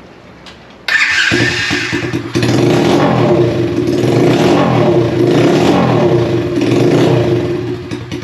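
Pit bike engine running straight-piped with the exhaust removed, starting abruptly about a second in and revved up and down repeatedly, loud, before easing off near the end.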